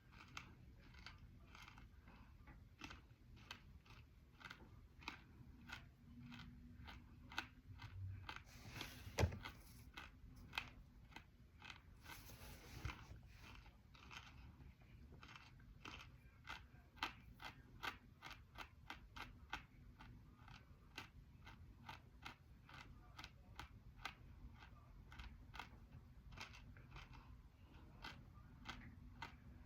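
Crisp, crunchy 'black hole' edible clay being chewed close to the microphone: a steady run of crunches, one to three a second, with the loudest bite about a third of the way in.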